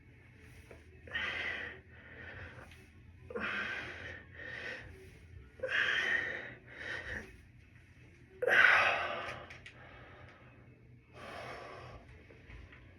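A person breathing hard, about nine loud, noisy breaths in and out, the loudest a little past halfway.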